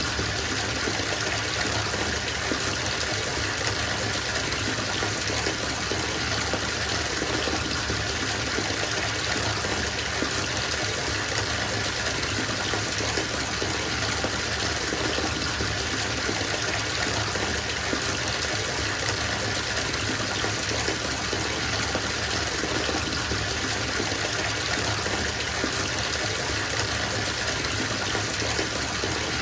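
Bathtub filling from a running tap: a steady gush of water falling into the tub, unchanging throughout.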